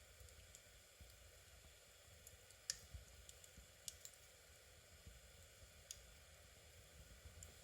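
Near silence broken by faint, sharp clicks at irregular intervals, about a dozen, the loudest a little under three seconds in, over a low steady hum.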